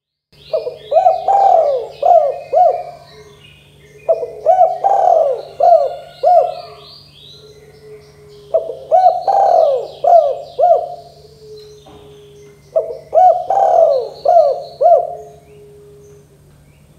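Spotted dove (tekukur) cooing: four phrases of several quick cooing notes, roughly four seconds apart. Small birds chirp faintly higher up, over a low steady hum.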